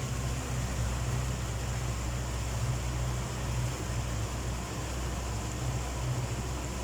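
Engine idling with a steady low hum and a hiss of noise over it.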